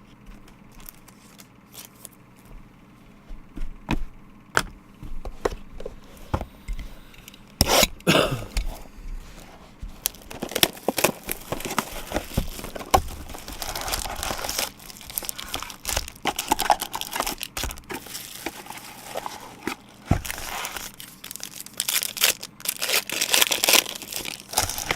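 Foil and plastic wrapping on a box of trading cards being torn open and crumpled, with crinkling and handling noise in several long bursts and sharp clicks and taps in between.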